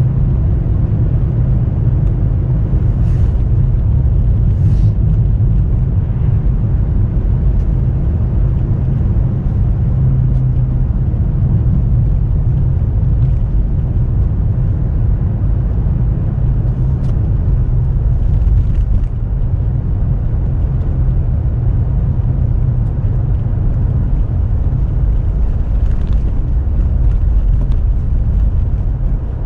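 Car driving, heard from inside the cabin: a steady low rumble of engine and road noise on a snow-drifted road, with a few faint ticks.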